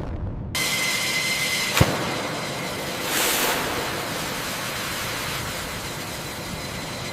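Jet engine noise: a steady rushing noise with a thin high whine sets in about half a second in. A single sharp click comes just before two seconds, and a brief swell of hiss follows around three seconds.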